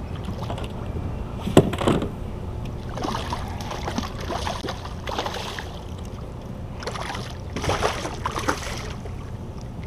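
Wind and water noise around a kayak, with a sharp knock about one and a half seconds in and bouts of splashing and handling noise later on.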